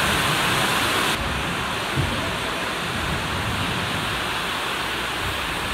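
Heavy rain pouring down, a steady hiss that turns duller about a second in.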